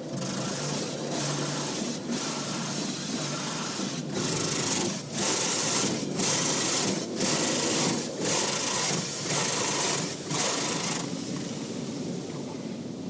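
Automatic car wash working over a car: a loud rushing hiss that starts suddenly, breaks briefly about once a second, and eases off near the end.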